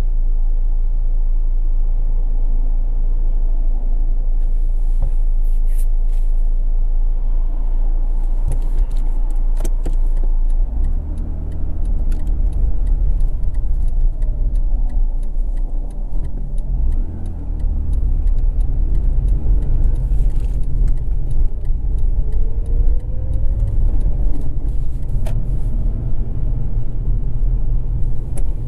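Mazda RX-8's two-rotor rotary engine and road noise heard from inside the car. A steady low hum while it waits at a light, then from about eleven seconds in a louder engine note as the car pulls away and accelerates, its pitch rising a little past the middle.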